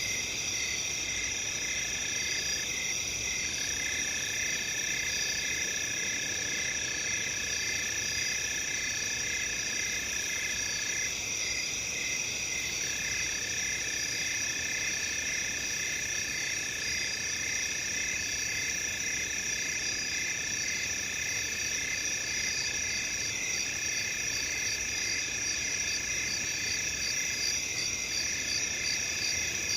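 Crickets and other night insects chirping in several overlapping layers: a steady high trill, a rhythmic pulsing chirp, and a lower continuous trill that stops briefly a few times.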